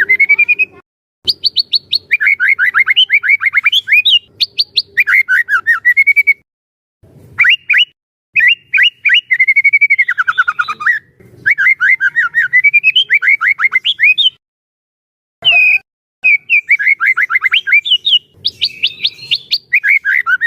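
White-rumped shama (murai batu) singing loudly in full song: quick phrases of rapidly repeated, sweeping whistled notes, separated by short pauses.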